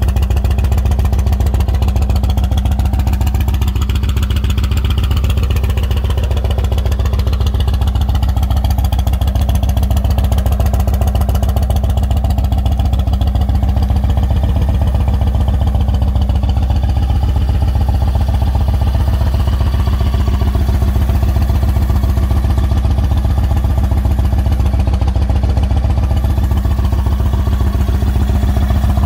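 Yamaha Raider SCL's 1,854 cc V-twin engine idling steadily, with no revving.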